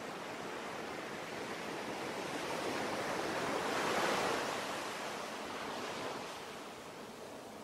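Ocean waves: a wave rushes in, swelling to its loudest about four seconds in, then draws back.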